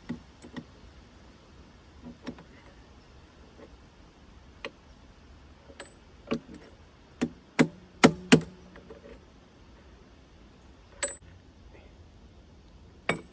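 Scattered metallic clinks and knocks of hand tools against steel sawmill parts, irregular and a few seconds apart, with a quick run of louder clanks about seven to eight seconds in and some carrying a short ring.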